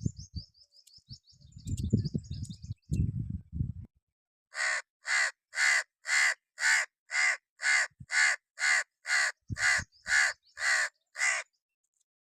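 Crow cawing in a fast, even series of about fourteen harsh caws, roughly two a second, starting about four seconds in. Low thumps and rumbles come before the calls.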